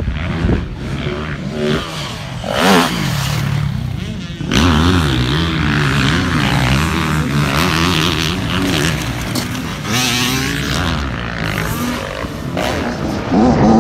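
Motocross dirt bike engine revving up and down repeatedly as it is ridden, with a sharp rise in revs near the end.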